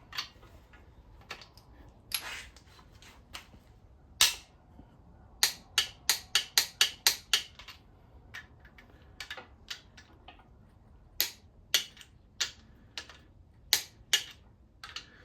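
Torque wrench ratcheting while main-cap bolts on an engine block are tightened: a series of sharp clicks, coming in quick runs of about three or four a second near the middle and as scattered single clicks elsewhere.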